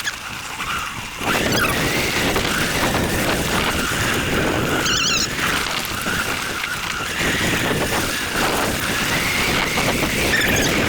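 ETM RTR electric dirt bike being ridden on a trail: the electric motor's high whine rises and falls with speed, over a steady rush of wind and tyre noise.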